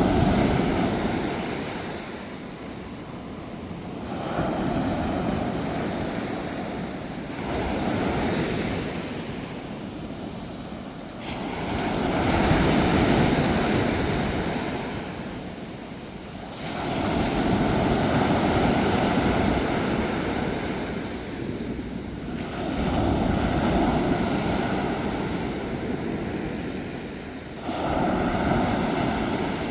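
Ocean waves breaking on a shore in repeated surges, about every four to six seconds, each swelling and then washing back.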